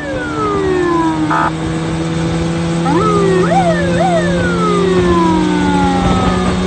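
Electronic vehicle siren sounding in short patterns: a falling wail, a brief rapid burst about a second in, two quick rising whoops around three to four seconds, then a long falling wail. A steady low hum runs underneath.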